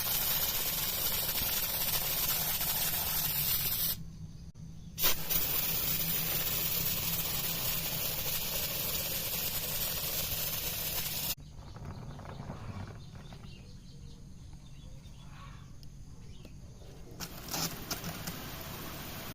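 Water spray hissing steadily in long stretches. It cuts out for about a second a few seconds in, gives way to a quieter stretch from a little past halfway, and starts again near the end.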